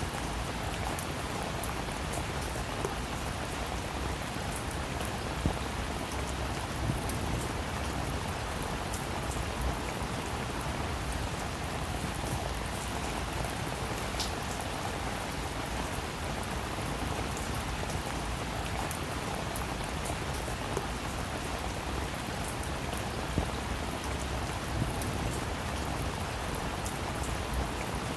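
Steady rain falling, an even hiss of drops with a scatter of sharper individual drop taps on a surface.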